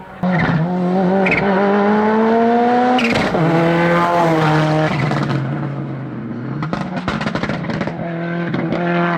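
Hillclimb race car engine at full throttle, the revs climbing, then dropping sharply at a gear change about three seconds in. The revs sag lower after that and pick up again near the end.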